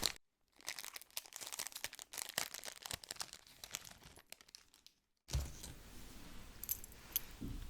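Crinkling of packaging handled close to the microphone: a dense run of small crackles that breaks off abruptly about five seconds in, followed by softer handling noise.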